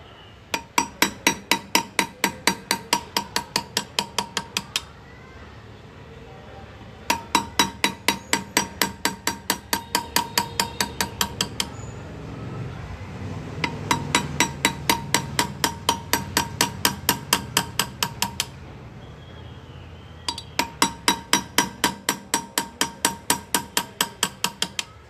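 Hand engraving: a small chasing hammer tapping a hand graver into metal, in four runs of quick even taps, about seven a second, with short pauses between runs. Each tap rings with a clear tone.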